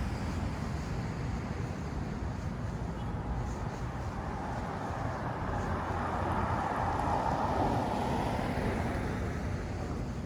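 City street traffic: a steady low rumble, with a vehicle passing that swells and fades about two thirds of the way through.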